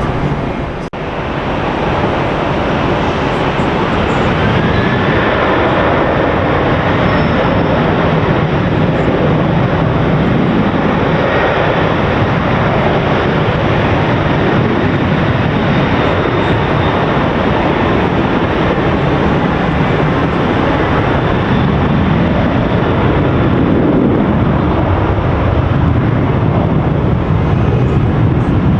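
Loud, steady jet airliner engine noise.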